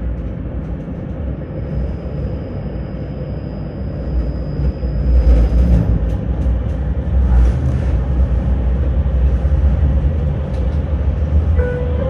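Tram running along the rails, heard from inside the car: a steady low rumble of wheels on track that grows louder about five seconds in, with brief hissing surges. A thin high whine sounds for a few seconds in the first half. Right at the end, an electronic chime of stepped tones begins, the signal before the next-stop announcement.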